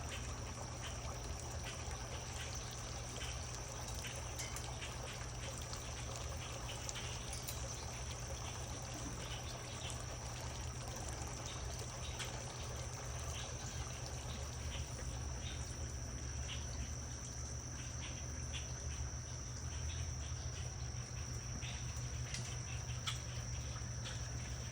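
Garden water fountain trickling, under a steady high-pitched insect trill, with a low steady hum beneath and scattered faint clicks.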